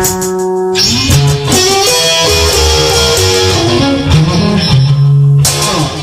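Instrumental guitar music: held notes, then a run of changing notes.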